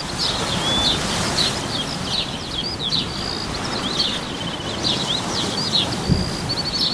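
Birds singing, a busy mix of quick trills, short chirps and sweeping whistles, over a steady background hiss.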